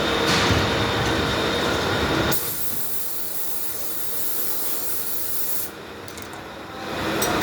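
CNC milling machine running with a steady mechanical hum and a few steady tones. About two seconds in it changes abruptly to a quieter, hissing sound, and it grows louder again near the end.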